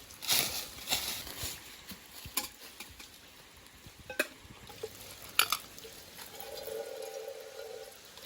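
A utensil scraping and stirring in a cooking pot, with a few sharp metallic clinks. Near the end a steady pitched whine sounds for about a second and a half.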